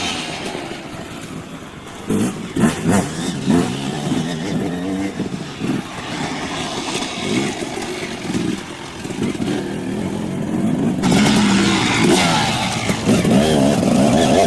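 Dirt bike engines revving up and down as the bikes ride the track, the pitch rising and falling with the throttle. The engines get louder about three quarters of the way through.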